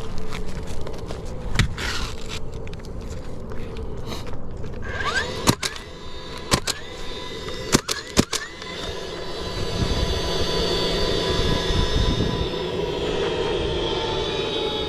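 Nail gun fastening ridge cap shingles, about five sharp shots in three seconds midway through, some with a short rising whine just before the shot. From the middle on, a steady rushing of an aircraft overhead grows.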